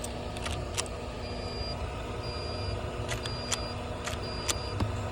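A steady low vehicle rumble, with a short high beep repeating about once a second and a few sharp clicks.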